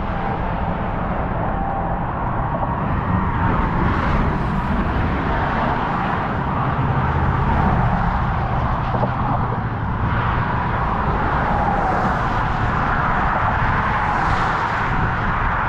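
Steady road traffic noise from cars crossing the bridge, an even rush of tyres and engines over a heavy, uneven low rumble.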